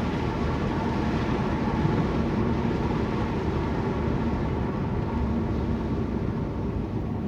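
Vehicle driving on a road: steady engine and tyre noise with a faint low hum.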